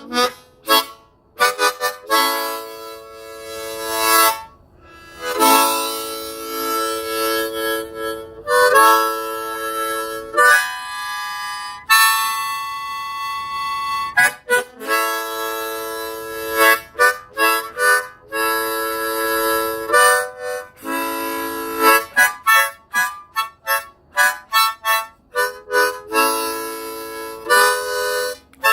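Harmonica music: held chords alternating with runs of short, quick notes.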